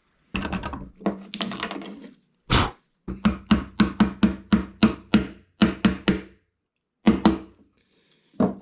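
Deer bone being struck again and again with a hard tool, sharp knocks with a short ring, a steady run of about three to four blows a second in the middle and a few single blows near the end, to break the bone into a blank for a fishing hook.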